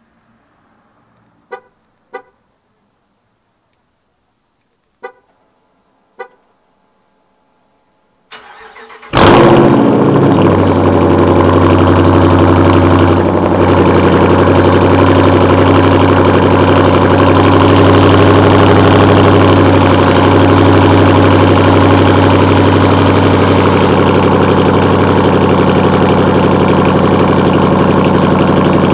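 Two pairs of short beeps, then the starter cranks briefly about eight seconds in and the Dodge Challenger R/T's 5.7-litre Hemi V8 fires on a cold start with a loud flare. Within a second or two it settles into a loud, steady fast idle through the exhaust.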